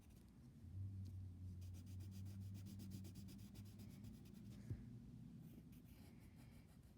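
Faint scratching of a drawing tool on paper as shading is filled in with quick repeated strokes, over a faint low hum.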